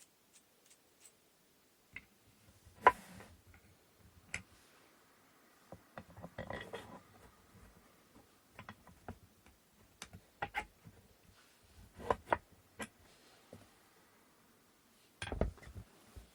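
Wooden inkle loom parts being handled and fitted together: scattered light clicks and knocks, with a sharp knock about three seconds in and a duller thump near the end.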